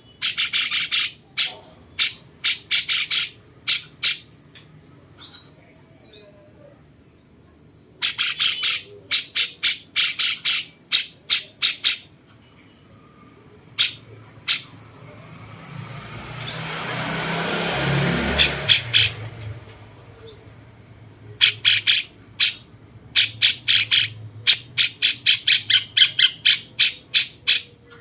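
A cucak cungkok calling in quick runs of sharp, clipped notes, several runs separated by pauses of a few seconds. A rush of noise swells and fades about halfway through.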